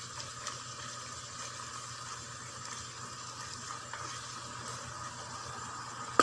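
Chicken gizzards in masala frying in a pan and being stirred with a spatula: a steady low sizzle with light scraping and small ticks. A single sharp clink at the very end.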